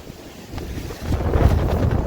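Strong storm wind buffeting the microphone in gusts, with a low rumble that swells louder about a second in.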